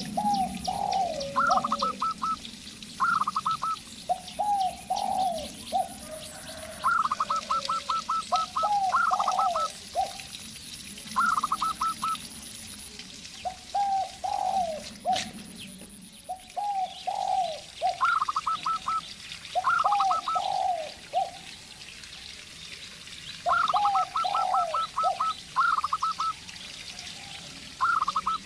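A zebra dove and a spotted dove calling back and forth. Lower, falling coo phrases take turns with higher, rapid runs of short cooing notes, repeating every second or two.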